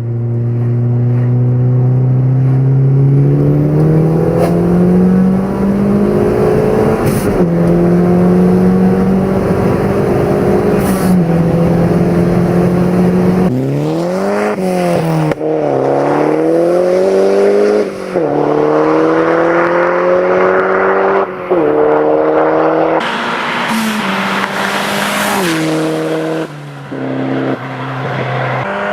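Tuned Opel Calibra 16V Turbo 4x4's turbocharged 2.0-litre four-cylinder, exhaust without a muffler, accelerating hard through the gears. The pitch climbs in each gear and drops at each shift, several times over, with a high hiss joining in over the last few seconds.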